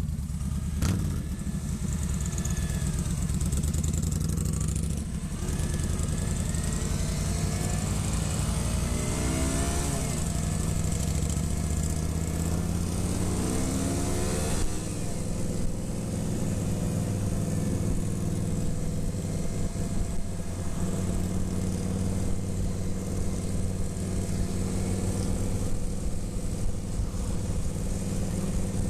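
Motorcycle on the move: the engine runs steadily under wind noise, its pitch rising and falling a few times in the middle as the throttle changes.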